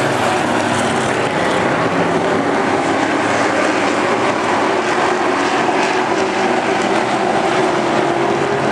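NASCAR race trucks' engines running at speed as a field. It is a loud, steady drone with several engine pitches layered over one another.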